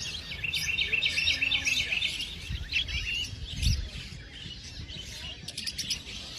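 Small birds chirping and twittering, with a quick run of repeated chirps in the first two seconds that thins out later, and a couple of low thumps in the middle.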